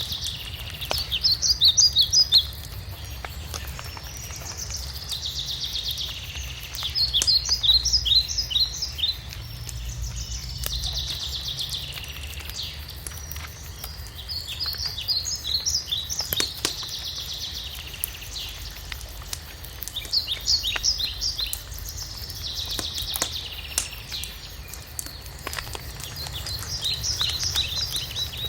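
A high call repeating about every six and a half seconds, each a buzzy note followed by a quick run of high chirps, over scattered light crackling of a wood fire.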